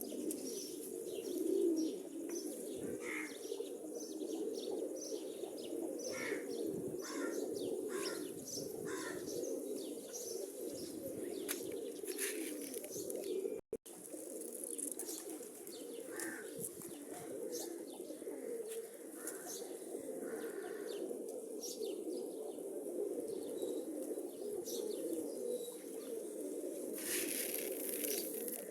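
Many domestic pigeons cooing together in a steady low murmur, with short high chirps over the top. The sound drops out for an instant about halfway through.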